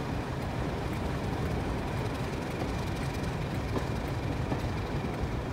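Train running: a steady low rumble with a few faint clicks.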